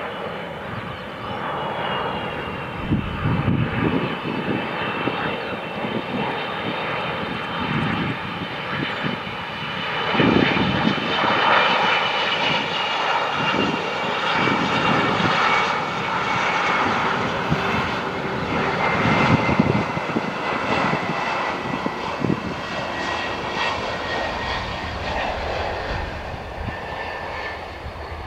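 Jet airliner passing close by: a steady engine roar with a high whine that slides slowly down in pitch, growing loudest midway and easing off near the end.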